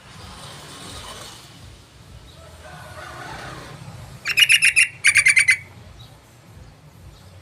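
Yellow-vented bulbul calling: two quick bursts of rapid chattering notes about four and five seconds in.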